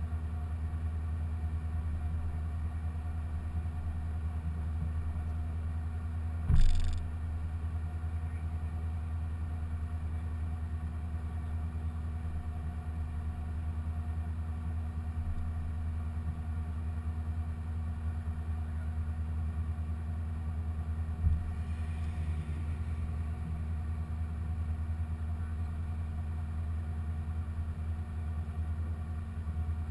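2015 Corvette Z06's supercharged 6.2-litre LT4 V8 idling steadily at an unchanging pitch, with a low rumble. A sharp knock comes about six and a half seconds in, and a smaller one about twenty-one seconds in.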